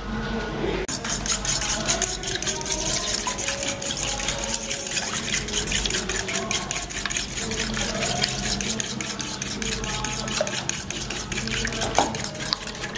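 Two raw eggs being whisked with a fork in a mixing bowl. The fork makes rapid, steady clicking against the bowl, with the wet slosh of the beaten egg, starting about a second in.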